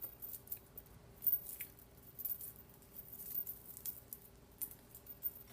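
Faint, irregular clicks and crinkly rustles of small things being handled at close range, with one sharper click a little after a second in, over a faint steady hum.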